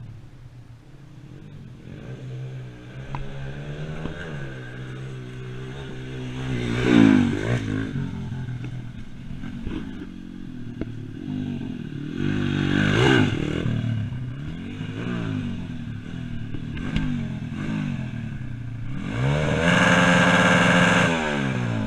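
Pit bike engines revving up and down on a track, loudest about seven seconds in and again about thirteen seconds in, with high revs held for a couple of seconds near the end.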